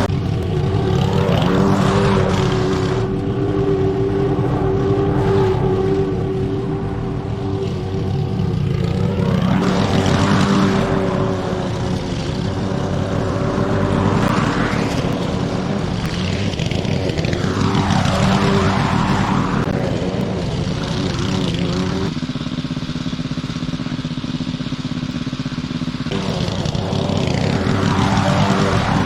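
Petrol lawn mower engine running steadily under load.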